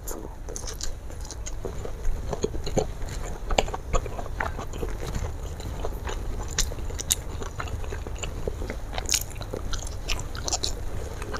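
Close-miked chewing and biting as a person eats fried fish and rice by hand, with many irregular sharp clicks and crunches.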